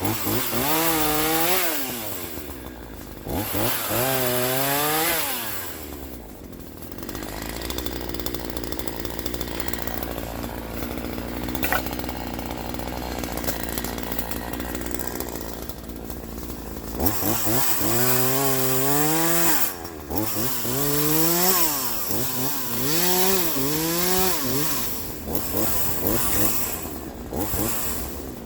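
Troy-Bilt TB4218 42cc two-stroke chainsaw revving in two bursts, running lower and steadier for about ten seconds, then revving up and down several more times near the end, its pitch rising and sagging with each rev.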